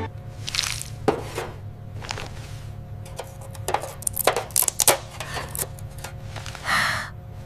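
Light clatter of sound effects: a run of quick clicks and knocks, thickest about halfway through, with a soft whoosh near the start and another near the end, over a steady low hum.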